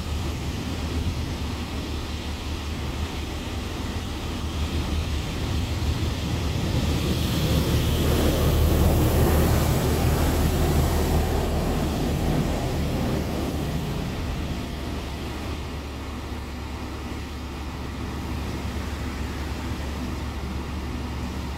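Automatic car wash machinery running: a steady low hum, with a broad rushing swell that builds, peaks and fades away over several seconds around the middle.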